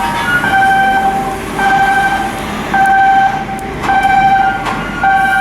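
A warning beeper sounding one steady tone over and over, about once a second, each beep lasting roughly half a second.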